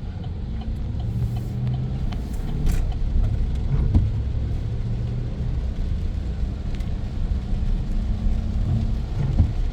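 Pickup truck engine and road noise heard from inside the cab while driving: a steady low rumble.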